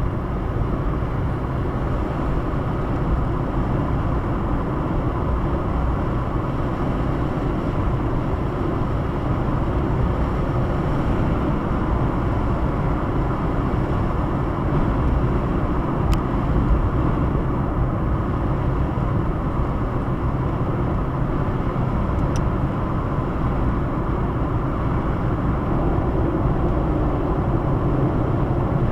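Steady road noise inside a moving car's cabin: engine and tyres at a constant cruising speed.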